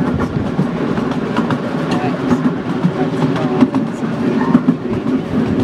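Miniature railway train running along the track: a steady low rumble with frequent short clicks.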